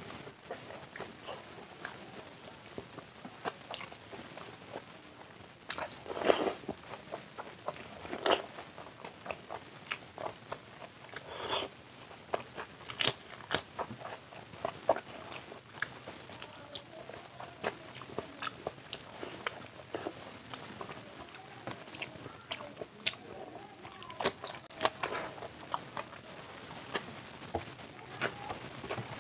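Close-miked chewing and biting of a person eating mouthfuls of chicken chow mein and egg curry by hand. Many short, sharp mouth clicks run through it, with a few louder bites.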